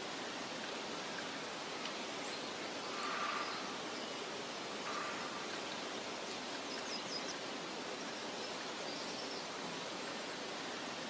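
Steady meadow ambience: soft wind hissing through grass, with a brief louder swell about three seconds in and a few faint, short, high bird chirps around the middle.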